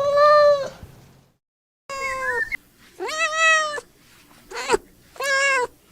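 Domestic cat meowing repeatedly, about five meows of under a second each, with a brief dead-silent break about a second and a half in.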